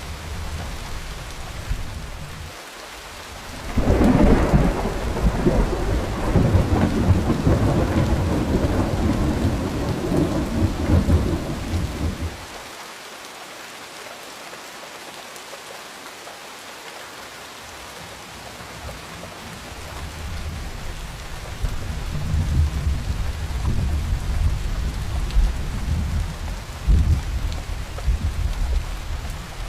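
Steady rain with thunder. A loud rumble of thunder starts suddenly about four seconds in and cuts off abruptly some eight seconds later, leaving only the rain. A second rumble builds from about two-thirds of the way through, with a sharper crack near the end.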